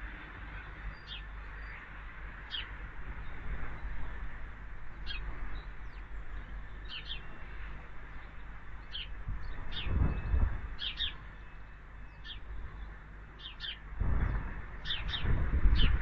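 Small garden birds chirping: short, high calls scattered through, coming thicker near the end. Under them a low rumble swells about ten seconds in and again over the last two seconds.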